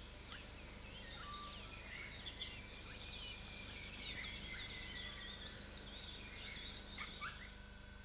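Forest birds chirping and calling, faint: many short quick chirps, with a long, slowly falling whistle through the middle.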